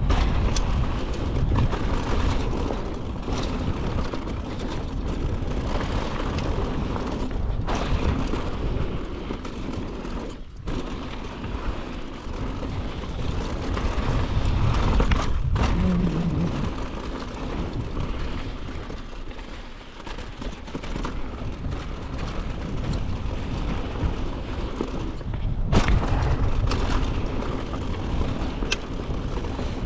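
Wind rumble on the microphone and riding noise from a mountain bike descending a trail. The rumble swells and eases with speed and drops out briefly a few times.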